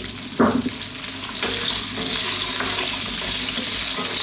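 Cubed raw potatoes frying in hot oil with cumin seeds in a nonstick pan: a steady high sizzle, with a sudden louder burst about half a second in as the potatoes go into the oil. A wooden spatula stirs and scrapes them near the end.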